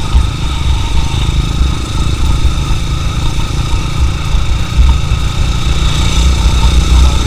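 Motorcycle engine running on the road, buried under a heavy, unsteady low rumble of wind on the camera's built-in microphone.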